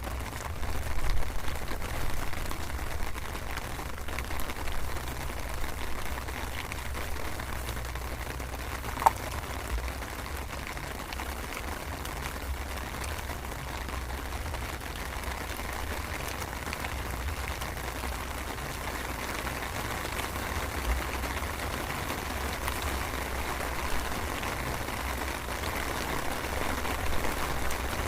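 Steady light drizzle falling, an even hiss of rain with a low rumble underneath. A single brief short sound stands out about nine seconds in.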